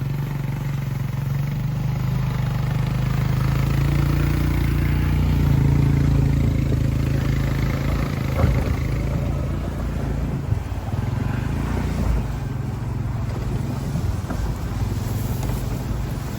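Four-wheeler (ATV) engine running steadily at low speed while towing a sled through snow, swelling a little a few seconds in, over a steady rushing hiss.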